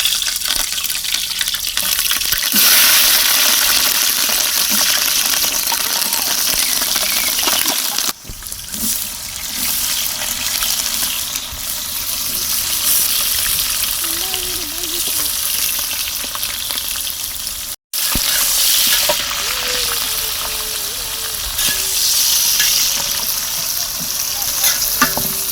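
Food sizzling in hot oil in a cooking pot while being stirred: a steady, loud frying hiss that dips abruptly about eight seconds in and cuts out for an instant near eighteen seconds.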